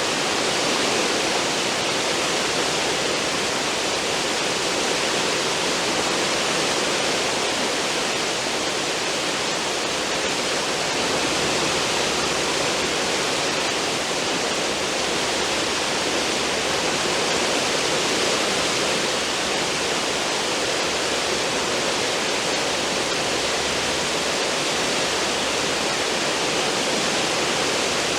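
Cruise ship's wake: churned sea water rushing and foaming steadily behind the stern.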